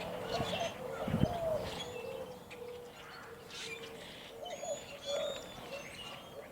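Birds calling: short repeated cooing notes mixed with scattered high chirps, and one soft low thump about a second in.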